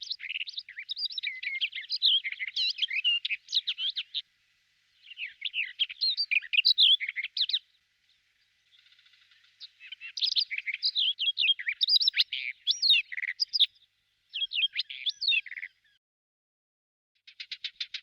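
A songbird singing long, fast, varied warbling phrases in several bouts with short pauses between them. Near the end a rapid, evenly pulsed trill begins.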